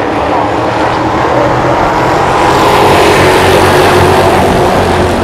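Late model stock cars' engines running at racing speed, swelling louder about two to four seconds in as the cars pass.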